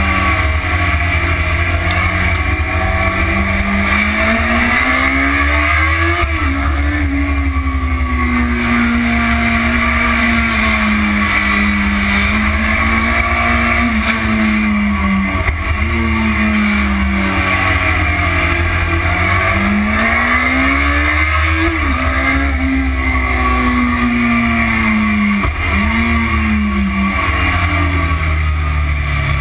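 Motorcycle engine heard from on board at track speed, the revs climbing and easing off slowly through the corners, with a few sudden dips in pitch as gears change. Heavy wind rumble on the tank-mounted camera's microphone runs underneath.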